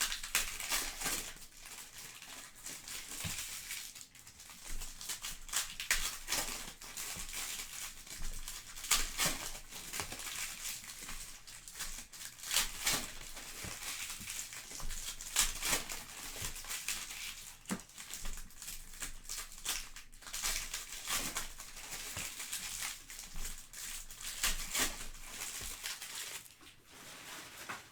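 Plastic trading-card pack wrappers crinkling and tearing as packs are opened by hand, a steady run of crackles.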